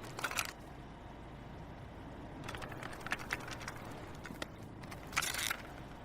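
Sparse, faint clicks and short bursts of hiss over a low steady hum, in small clusters about half a second in, around two and a half to three and a half seconds in, and once more past five seconds.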